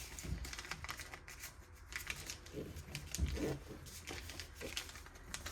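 Folded origami paper being pressed flat and creased by hand: faint, irregular crinkling and rustling with small clicks.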